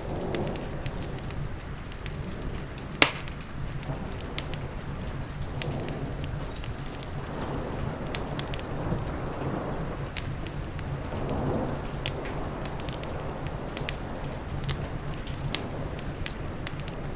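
Wood fire crackling with frequent sharp pops, one much louder pop about three seconds in, over steady rain noise and a low, steady rumble.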